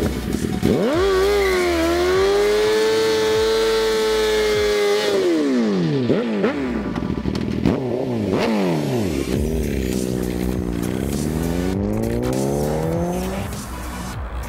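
2009 Suzuki GSX-R1000's inline-four through a Two Brothers full exhaust, revving hard. Its pitch climbs and holds high and steady for a few seconds, drops away, rises and falls quickly several times, and climbs again near the end.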